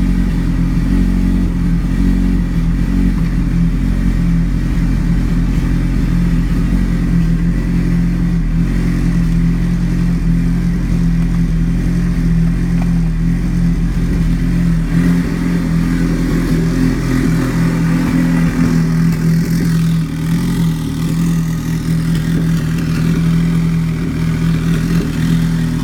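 Car engine with a hood-exit exhaust idling steadily after a cold start, a loud, even note.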